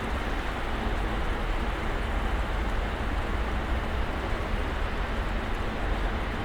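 Snowstorm ambience: a steady, dense hiss with a deep low rumble underneath, unchanging throughout.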